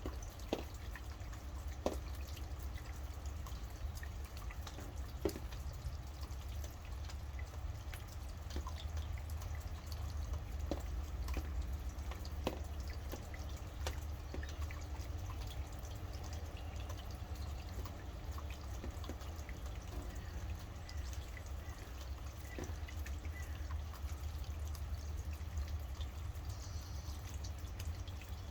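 Rain falling, with separate heavy drops striking close by every second or two over a steady low rumble.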